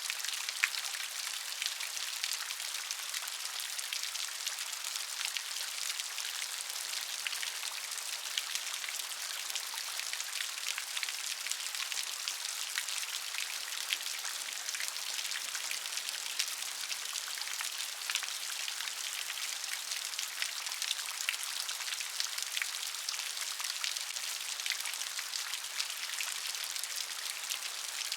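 Steady gentle rain: a dense, even patter of drops with many small ticks and no rumble or thunder.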